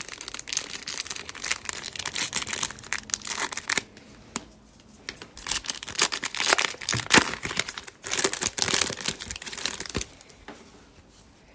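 Trading-card pack wrapper being torn open and crinkled by hand, in two spells of dense crackling with a short pause between.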